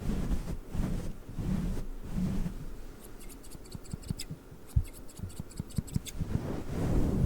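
A fluffy microphone windscreen being rubbed close to the mic, giving muffled swishes. From about three seconds in, scissors open and close in a quick run of sharp metallic snips and clicks for about three seconds, and the fluffy rubbing comes back near the end.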